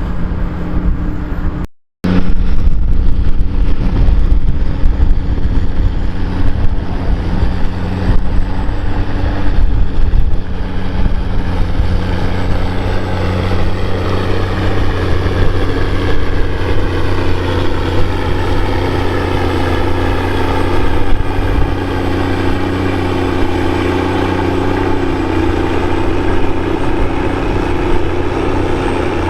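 Heavy New Holland tractor's diesel engine running hard as it pulls a scraper, with a loud steady drone. The sound drops out briefly about two seconds in, and in the second half a higher whine slowly rises in pitch.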